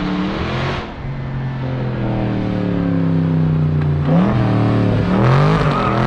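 Dodge Charger Scat Pack's 392 (6.4-litre) HEMI V8 with catless mid-pipes, loud exhaust under revs: the pitch sinks slowly for about three seconds, then climbs sharply and drops twice near the end, as in hard acceleration through a gear change.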